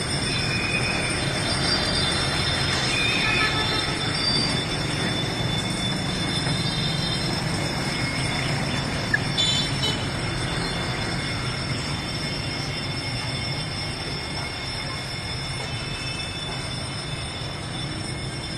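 A train running on rails: a steady rumble with thin high-pitched wheel squeal held over it. There is one sharp click about nine seconds in, and the sound fades a little in the second half.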